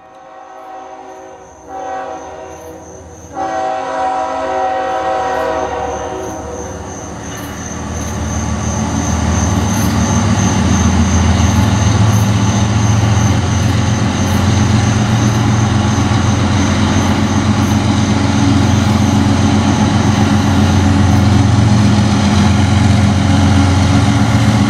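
Diesel freight locomotives approaching and passing. The horn sounds in a few blasts over the first several seconds, then the deep rumble of the engines builds and stays loud as the lead units go by close.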